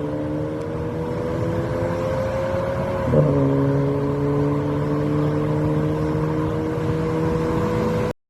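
Audi A3 8V 1.4-litre turbocharged four-cylinder accelerating through a CGW valved cat-back exhaust and MACH5 downpipe. The engine note climbs steadily, drops with an upshift about three seconds in, then climbs again before cutting off suddenly near the end.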